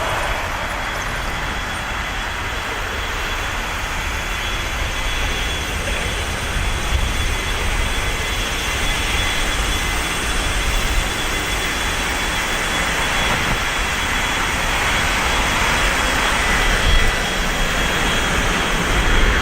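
Jet airliner engines running steadily, a broad continuous noise with a thin high whine over it.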